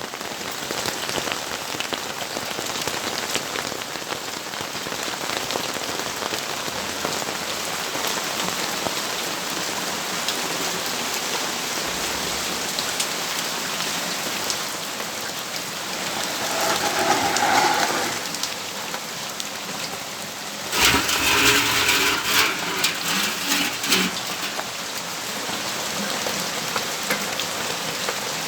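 Steady rainfall hissing and pattering. About two thirds of the way through there is a brief louder swell, then a few seconds of loud, irregular crackling.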